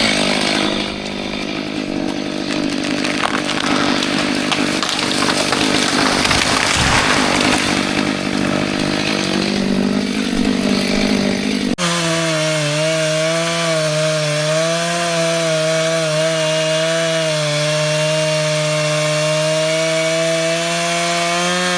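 Chainsaw cutting into a tree trunk, the engine running under load with a lot of rasping noise from the chain in the wood. About twelve seconds in the sound cuts abruptly to a chainsaw engine running at a steady high pitch.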